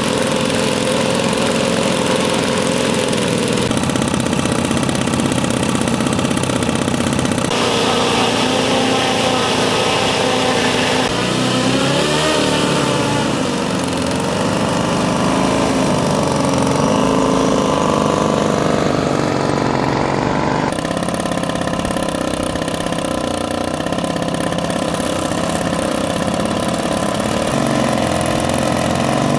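Propeller engines of a giant-scale radio-controlled Transall C-160 model running, their pitch wavering up and down. The sound changes abruptly several times.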